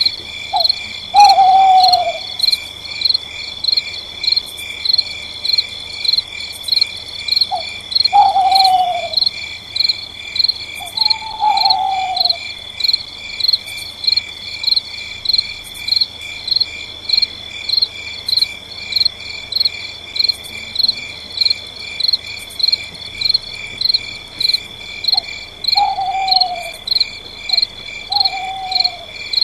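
A nighttime insect chorus of crickets and similar insects, high-pitched and pulsing steadily and evenly. Over it, five times, a short falling hoot, each with a brief note just before it.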